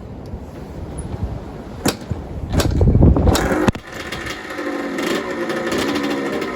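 1983 Yamaha YZ80's single-cylinder two-stroke engine being kick-started: a few sharp clanks and a loud brief sputter, then it catches about four seconds in and runs steadily.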